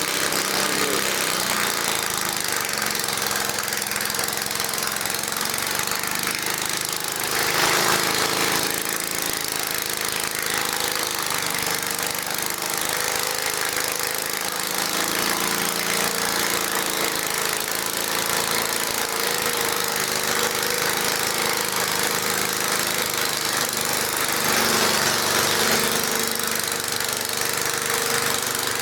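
Small garden tractor engine running hard under load, pulling a weight sled, with a rough, knocking note. It swells louder about seven seconds in and again near the end.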